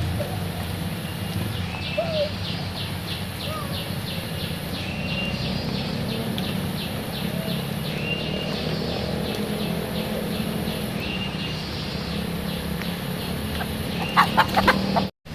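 Steady rain falling, with short bird calls every few seconds and a quick burst of loud calls near the end.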